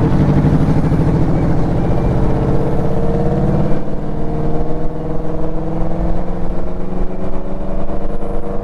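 Motorcycle engine pulling under acceleration with its pitch climbing. Near the middle there is a gear change, after which the pitch climbs again more slowly.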